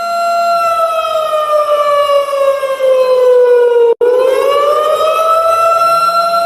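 Alarm siren sounding a single wailing tone. It holds steady, then slides down in pitch for about three seconds, breaks off for an instant about four seconds in, and climbs quickly back up to its steady pitch.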